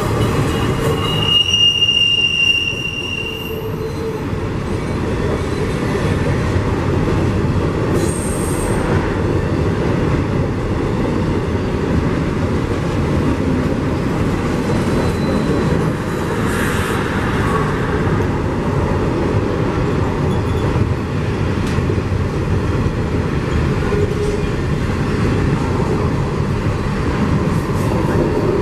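A train rolling past with a steady, loud rumble of wheels on rail, and high metal-on-metal wheel squeals, the loudest about two seconds in and a shorter one around eight seconds.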